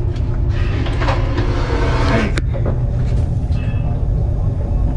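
Steady low rumble of a high-speed train running, heard from inside the carriage. A brief hissing rush sets in about half a second in and stops with a sharp click at about two and a half seconds.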